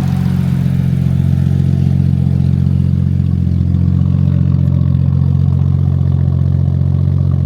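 Freshly rebuilt Nissan RB25DET turbocharged straight-six idling steadily on the tuner's base map, running clean and smooth.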